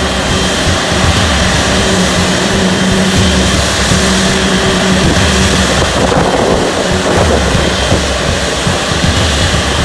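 Jet airliner engines running: a loud, steady noise with a few held tones in it.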